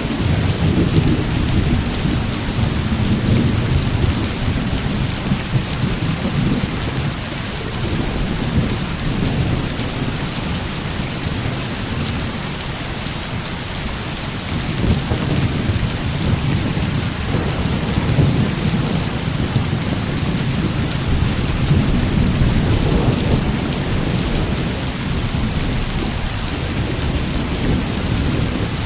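Heavy rain pouring steadily, with low rolling thunder that swells and fades several times.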